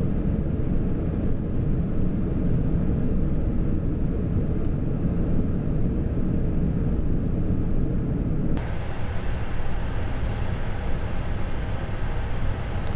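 Steady flight-deck noise of a Boeing 747-400 on approach: a low rumble of airflow and engines. About eight and a half seconds in, the noise changes abruptly, with less rumble and more hiss.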